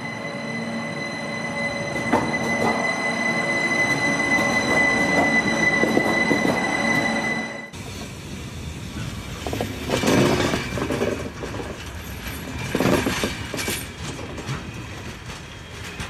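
Rhaetian Railway ABe 8/12 electric railcar running along street track, a steady rumble carrying a steady high-pitched tone that grows a little louder. About eight seconds in the sound cuts off abruptly and is replaced by a different, uneven noise with two louder surges.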